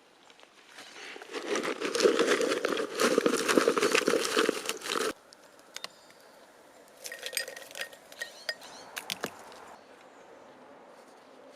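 In-shell peanuts rattling and crinkling as they are poured or shaken out. A dense run lasts about four seconds and stops suddenly, then a few scattered clicks follow.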